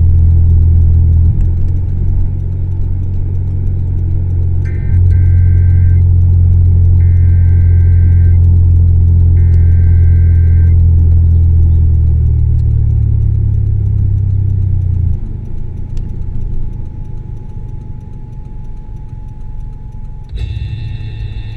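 Honda CR-V running with its resonator and muffler deleted: a loud, steady low exhaust drone held for about fifteen seconds, then dropping off. Three short electronic beeps sound during the drone.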